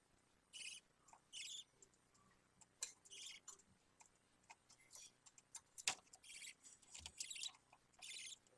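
Faint, buzzy chirps of a budgerigar chick: about eight short calls at irregular intervals, with a few light clicks between them.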